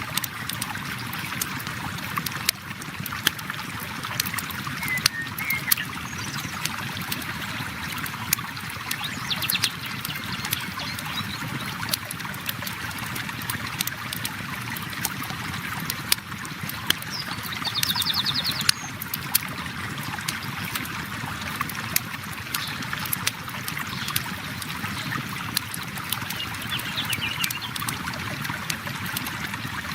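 A river flowing steadily under the sharp pops and crackles of a wood campfire. A bird trills briefly a few times.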